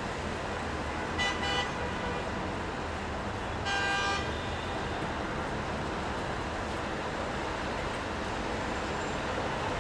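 Steady city street traffic noise, with two short car horn toots, one about a second in and a slightly longer one about four seconds in.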